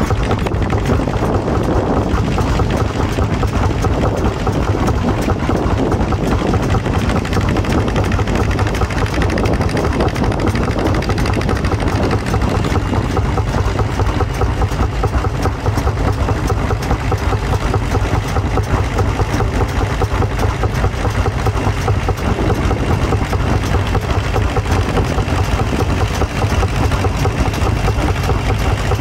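Vintage tractor engine running steadily, a continuous rapid pulsing exhaust beat with no change in speed.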